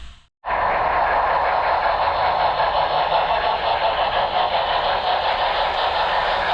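A split-second of silence at an edit, then an HO scale model train running: a loud, steady mechanical noise with a fast flutter in it.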